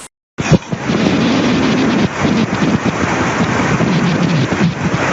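Loud rushing floodwater, with wind buffeting the microphone in uneven low gusts. The sound begins abruptly after a brief dropout near the start.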